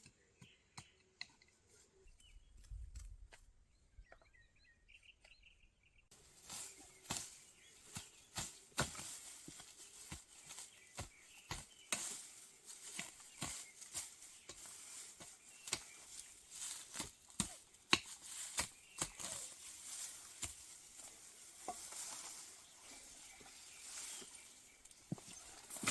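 Hand weeding in a garden bed: a dense run of scraping and rustling strokes in soil and plants, beginning abruptly about six seconds in after a few faint bird chirps and scattered clicks.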